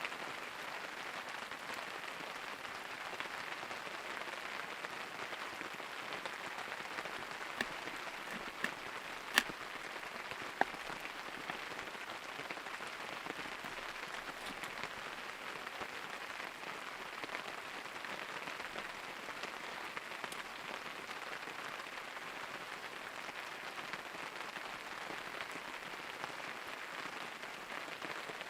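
Steady rain falling, an even hiss throughout, with a handful of sharp clicks about eight to eleven seconds in.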